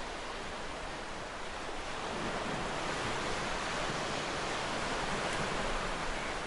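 Ocean surf breaking and washing on a beach, a continuous rushing with a slow swell in level about two seconds in.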